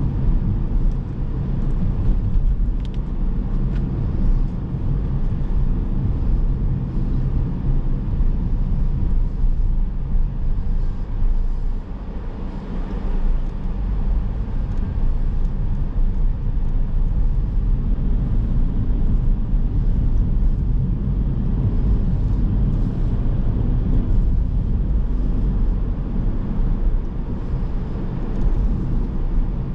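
A car driving on a city road: steady low rumble of tyres and engine, easing briefly about twelve seconds in before picking up again.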